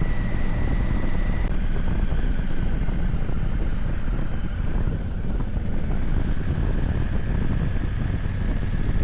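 A car being driven, with steady road and engine noise. A faint high whine drops slightly in pitch about a second and a half in.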